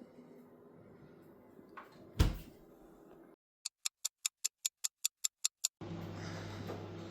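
A single loud thump, then a quick run of about eleven short, sharp ticks, roughly five a second, after which a steady low hum sets in.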